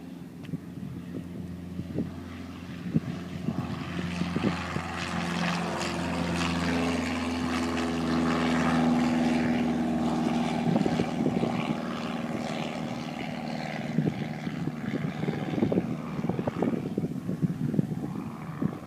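Cessna light aircraft's propeller engine droning on takeoff, growing louder to a peak about halfway through and then fading as it passes and climbs away.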